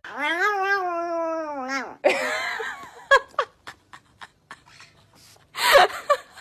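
An animal's long whining call for about two seconds, falling in pitch at the end. Rougher cries and a run of clicks follow, then a short loud cry near the end.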